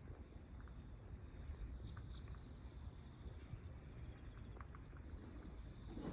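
Quiet outdoor background: a low rumble with a faint, high, rapidly pulsing insect chirp running throughout, and a few soft ticks.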